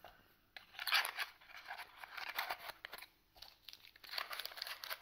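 Packaging rustling and crinkling as it is handled, in two stretches: from about half a second in to just past three seconds, then again until the end.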